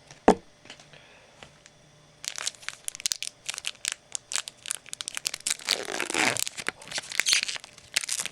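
A sharp click just after the start, then from about two seconds in, a card pack's foil wrapper being torn open and crinkled in a dense run of crackles.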